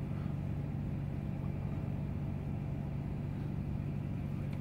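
A vehicle's engine idling: a steady low hum with one constant low tone.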